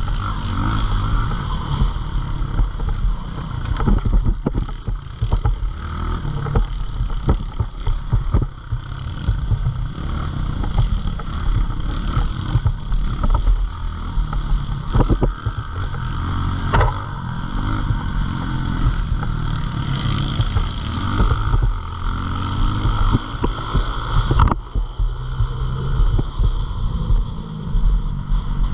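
Pit bike engine running under riding, its pitch rising and falling with the throttle, under heavy wind buffeting on the microphone and frequent knocks and rattles.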